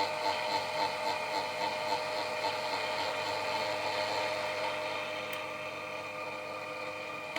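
Small electric motor of a restored Johnson Model D fare box running steadily, a hum with a faint regular pulsing that eases slightly in level. Right at the end it cuts off abruptly with a click as its cam switch shuts it off after its cycle.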